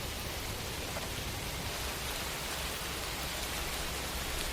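Steady, even hiss of background noise with a faint low rumble underneath.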